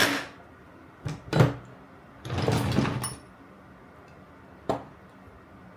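Parts and tools knocking and clicking against each other as a reciprocating saw is reassembled: a sharp knock at the start, a click and a louder knock just after a second in, a short rattling scrape a little past two seconds, and one last click near the end.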